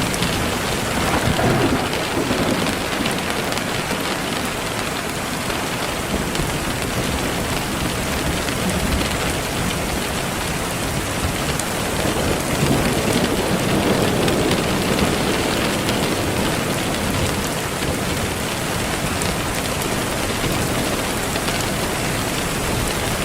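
Steady, dense rain noise with no break, with a low rumble swelling about a second in and again around twelve to sixteen seconds in.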